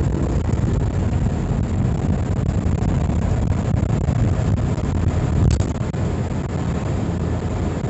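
Suzuki Super Carry mini truck driving at road speed, heard from the cab: a steady low engine drone under road and wind noise. A short click about five and a half seconds in.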